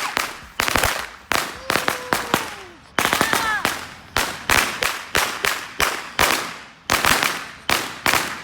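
Firecrackers going off in a long irregular string of sharp bangs, two or three a second, stopping just before the end.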